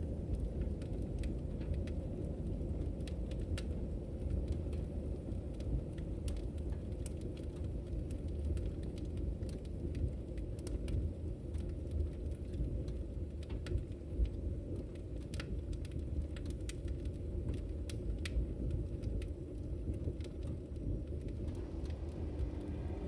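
Logs burning in a fireplace: a steady low rumble of the fire with sharp crackles and pops scattered at irregular moments.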